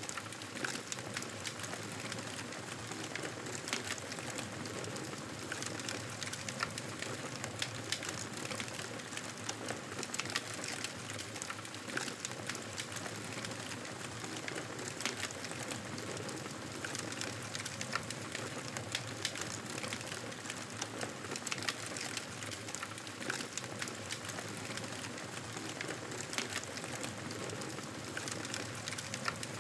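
Campfire burning, a steady crackle with frequent sharp pops and snaps from the burning wood.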